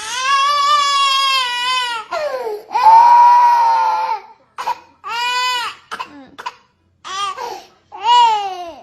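A string of loud, drawn-out wailing cries: two long, wavering calls of about two seconds each, the second one the loudest, then five or six shorter ones that rise and fall away in pitch.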